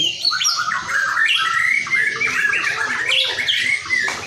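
White-rumped shama (murai batu, Barito type) singing a fast, continuous song of short, varied chirps and whistles, with a single click near the end.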